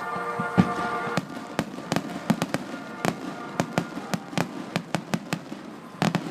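Fireworks going off in a rapid, irregular string of sharp bangs and crackles. Music plays at first and breaks off about a second in.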